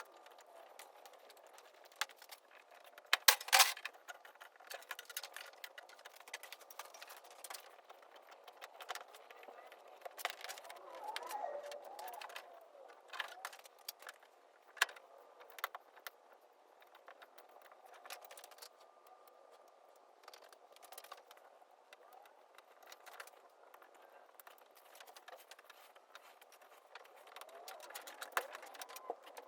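Scattered clicks, scrapes and light knocks of hand tools working around a car's windshield, with one loud clatter about three seconds in.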